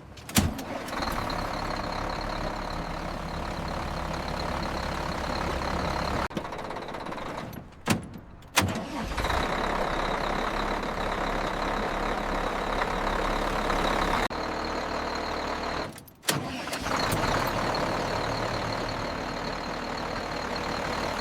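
A bus engine running steadily, with a low hum and a faint high whine, cut off briefly three times by abrupt breaks, about a third of the way in, just before the middle and about three quarters of the way through.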